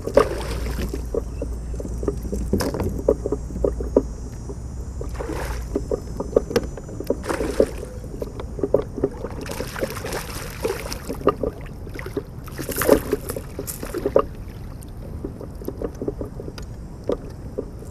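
Water splashing and lapping around a kayak, with many small knocks and clicks against the hull and gear and a few brief swishes.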